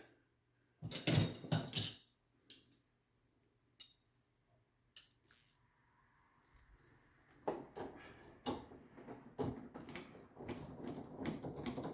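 Spanner working a stubborn nut loose: scattered metallic clinks and clicks, with a clatter near the start and the clicking and scraping getting busier from about seven and a half seconds in.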